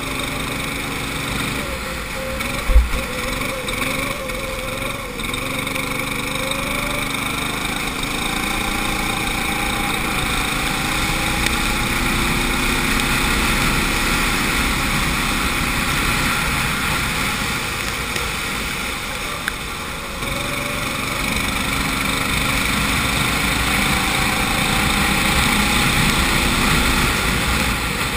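Go-kart engine heard onboard, its pitch climbing slowly as it accelerates, falling back about twenty seconds in, then climbing again, over a steady hiss. One short knock about three seconds in.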